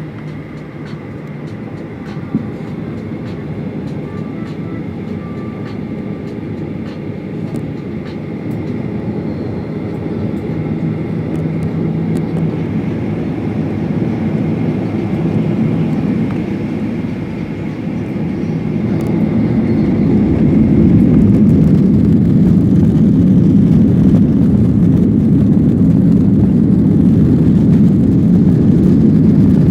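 Jet airliner's steady low rumble, which swells about two-thirds of the way through and then holds loud, as the engines power up for the take-off roll.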